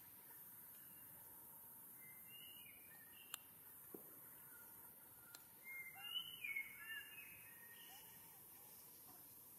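Faint short, high bird chirps over a steady background hiss, with a busier run of chirps about six seconds in and a couple of brief clicks.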